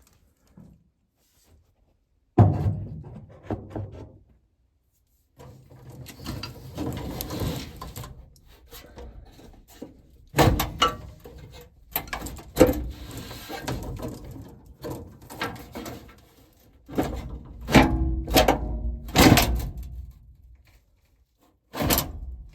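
Sheet-metal clunks, knocks and scraping as a furnace blower assembly is handled and worked back into place in its cabinet. There are irregular sharp knocks with short quiet gaps between them, and the loudest clunks come near the start and in the second half.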